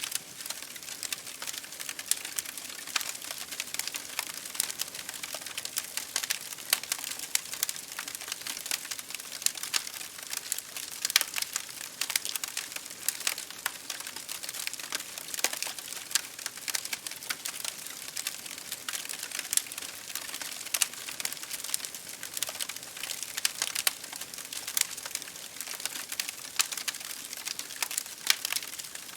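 Wood fire in a fireplace crackling with a dense stream of small pops and snaps, mixed with rain pattering on a window pane.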